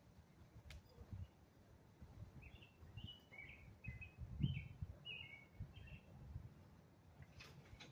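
A small bird chirping a quick series of short, high notes over a faint, low outdoor rumble.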